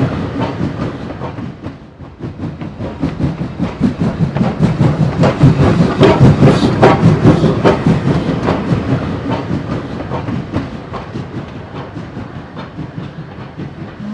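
Model train running along the layout's track: its wheels click quickly over the rail joints above a steady rumble. It grows louder to a peak a little past the middle, then fades as it moves away.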